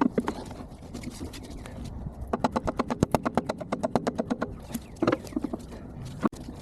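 Hand tools working on a backhoe boom hydraulic cylinder, sped up fourfold: scattered metal knocks, and a rapid, even run of sharp taps for about two seconds in the middle.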